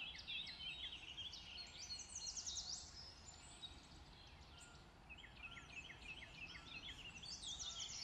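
Faint birdsong: small birds chirping in quick runs of short, high notes, with a lull in the middle before the chirping starts again.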